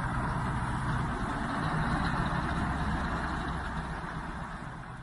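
Heavy diesel engine running steadily under load during an attempt to tow a truck stuck on ice, easing off slightly near the end.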